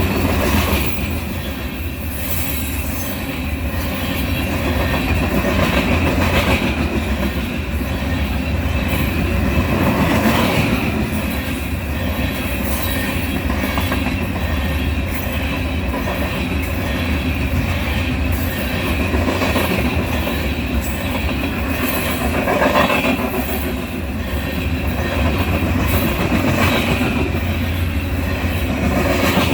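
Union Pacific train rolling past: a steady rumble of railcars on the rails, with a thin steady wheel squeal running over it.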